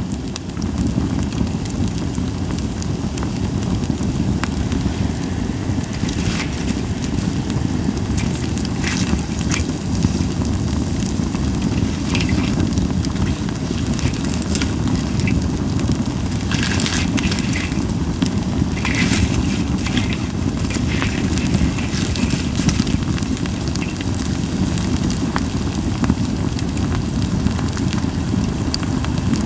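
Campfire of Japanese white pine firewood burning, with a steady low rumble and frequent sharp crackles and pops scattered through, busiest in the middle; little hissing.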